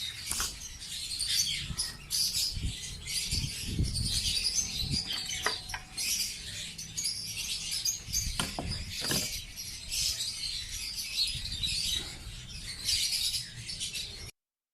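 A colony of lovebirds chattering and chirping continuously, with a few scattered knocks and handling thumps; the sound cuts off abruptly near the end.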